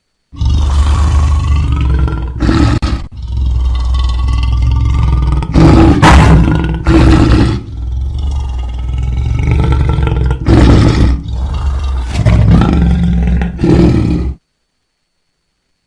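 Lion roaring: a long run of deep roars with several louder surges, starting suddenly and cutting off abruptly near the end.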